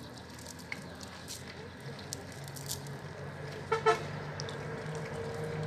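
A steady low engine hum sets in a couple of seconds in, with a short higher-pitched call or toot just before the middle.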